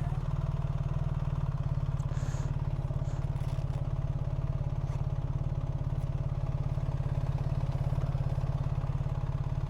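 BMW R1300GS boxer-twin engine idling steadily at a standstill.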